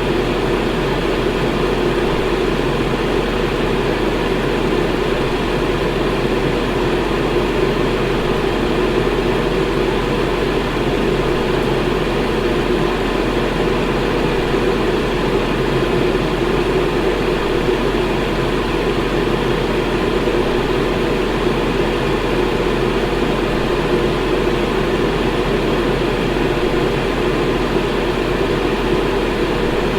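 Electric fan running at a steady speed: an even, unchanging rushing noise, strongest in the low-middle range, with a low hum underneath.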